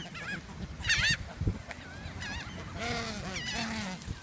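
Waterfowl honking, a string of short, arching calls: one about a second in, then several more in quick succession.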